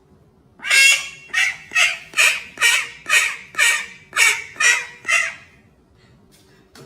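A bird giving a series of about ten short, harsh calls, roughly two a second, which stop about five seconds in.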